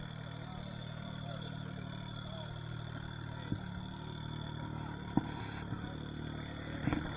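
A car engine idling steadily as a low rumble, with faint voices and a few short clicks.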